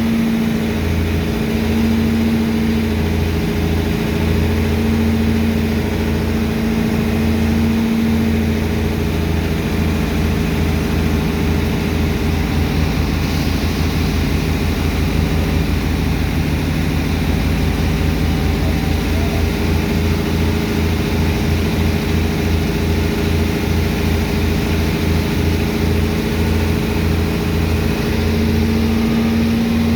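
Heavy diesel engine of a sand dredger's pump running steadily, with a low pulsing throb and a steady hum.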